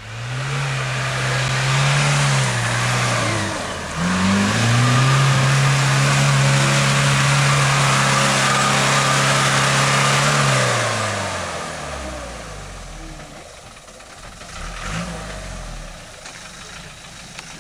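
Land Rover Defender engine revving hard under load on a steep muddy climb. The revs rise, dip briefly about three seconds in, climb again and are held high for several seconds, then die away after about eleven seconds.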